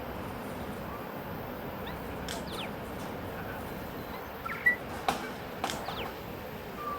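New Zealand bellbird calling in short, scattered notes and clicks over a steady background hiss, the loudest note about two-thirds of the way through.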